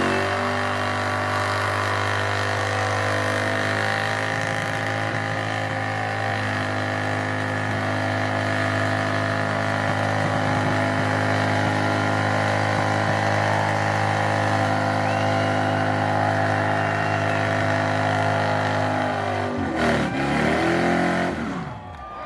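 Car engine held at high, steady revs through a burnout on one unchanging note. Near the end the revs fall away, then come back in a few quick blips up and down.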